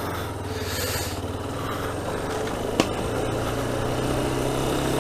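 Yamaha Ténéré 250's single-cylinder four-stroke engine running steadily as the motorcycle is ridden, with one sharp click just under three seconds in.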